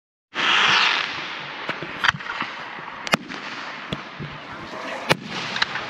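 Fireworks going off: a loud noisy burst right at the start, then a series of sharp bangs, the loudest about two, three and five seconds in.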